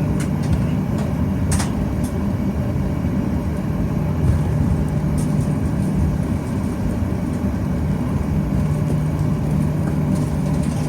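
Cabin noise of a Boeing 737-800 taxiing: a steady low rumble of the engines and airframe with a constant hum underneath. A few light clicks or rattles come through, the sharpest about a second and a half in.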